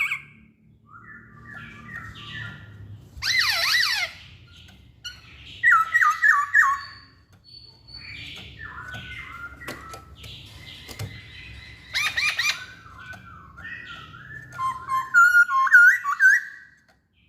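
Black-throated laughingthrush (poksay Hongkong) singing a varied song of short whistled phrases: a series of quick falling notes about six seconds in, harsher bursts at about three and twelve seconds, and the loudest run of rapid up-and-down whistles near the end.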